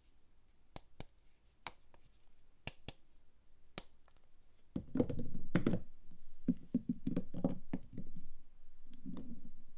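Soap packaging handled and opened by hand: a few sharp light taps and clicks, then from about five seconds in a dense run of rustling and knocking handling noise.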